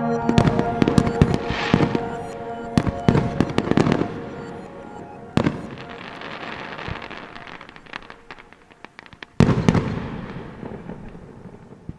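Fireworks display: repeated sharp bangs and crackling, with two big bursts about five seconds in and near the end, the last one crackling away and fading out. Music plays under the opening seconds.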